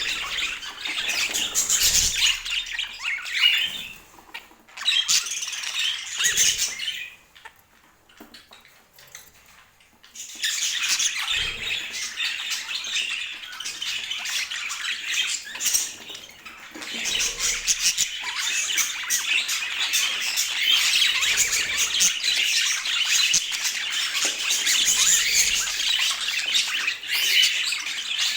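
Budgerigars chattering and warbling in a continuous stream of fast chirps and squawks, falling quiet for a few seconds about a third of the way through.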